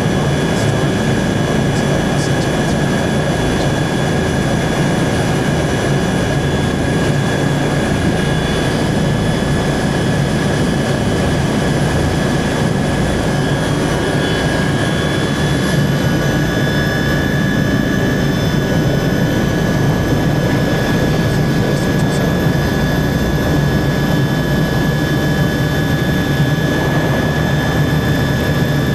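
Turbine helicopter in flight, heard from inside the cabin: a steady rush of rotor and engine noise with high, steady turbine whine tones; the highest whine steps up slightly about halfway through.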